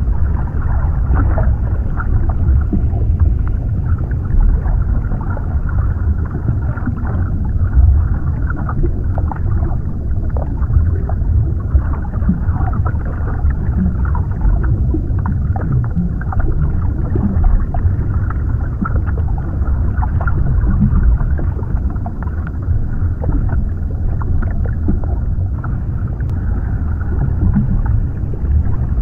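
Underwater ambience: a steady low, muffled rumble of water with faint scattered small clicks and bubbly blips.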